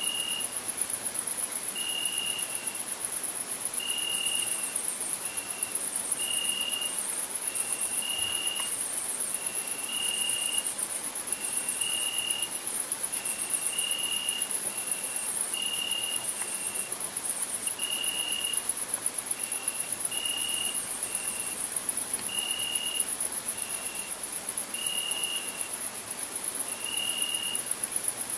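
Crickets chirring in a dense, steady, finely pulsing high trill. Over it, a short higher-pitched note repeats about every two seconds, sometimes doubled.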